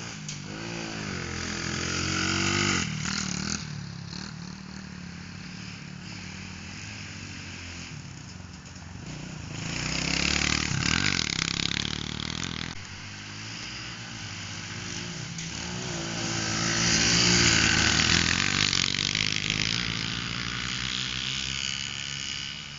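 Pit bike engines revving and changing pitch as riders lap the track. The bikes grow loud as they pass close, about two seconds in, around ten to twelve seconds, and again around seventeen to eighteen seconds.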